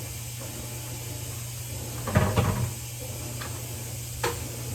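Kitchen handling noises as greens are loaded into a cooking pot: a short clatter of knocks about two seconds in and a single sharp click near the end, over a steady low hum.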